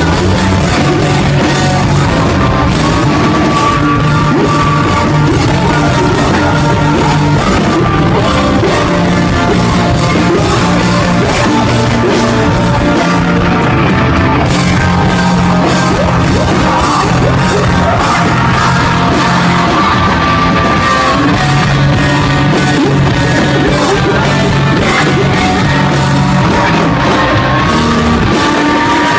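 Loud, dense rock music played by a band, with singing and yelled vocals over it.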